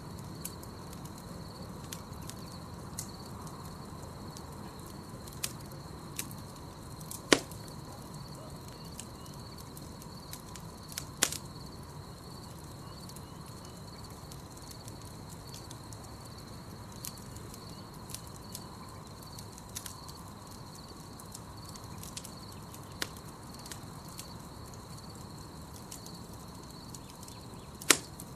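Campfire crackling: scattered sharp pops and snaps of burning wood, the loudest about 7 seconds in, about 11 seconds in and near the end, over a low steady rush of the fire. A steady high trill runs underneath.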